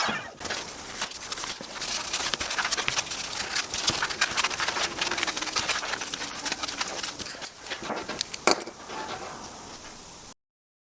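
Irregular light clicking and rubbing of wooden workpieces being handled, with one sharper knock about eight and a half seconds in. The sound cuts off abruptly shortly before the end.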